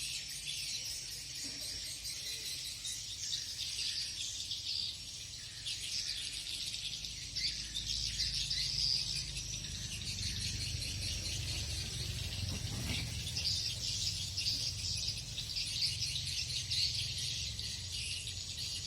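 Swiftlets twittering: a dense, continuous chatter of many short, high chirps, over a low steady hum.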